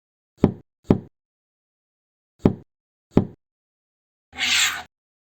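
Sharp knocks of tools on wood, in two pairs, then a short scraping rasp near the end.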